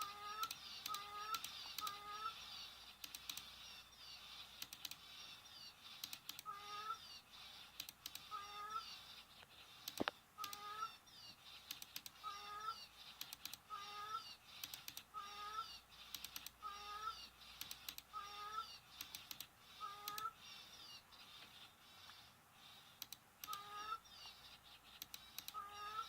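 Short mewing calls repeated about once or twice a second, each with a quick hooked pitch. Behind them run a steady chorus of faint high chirping and scattered light clicks, with one sharp snap about ten seconds in.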